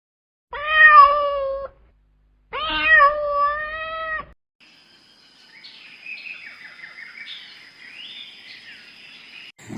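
Domestic cat meowing twice, the second meow longer. A fainter stretch of high chirping over a thin steady high tone follows.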